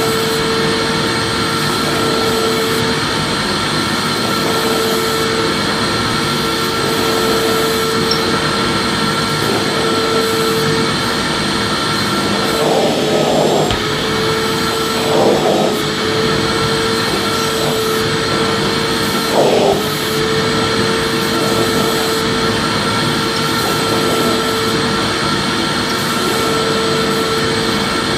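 Vacuum cleaner running steadily: a constant rushing motor and airflow noise with a steady hum and a thin high whine over it. A few brief louder bumps come about halfway through.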